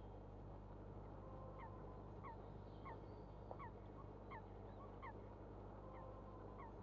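A bird calling faintly: a regular series of short, falling chirps, nearly two a second, starting about a second and a half in, over a low steady hum.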